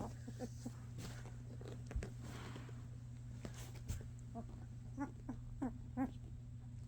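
Newborn German Shepherd puppies making short, faint squeaks and grunts, a few early on and a quick string of them in the second half, over a steady low hum.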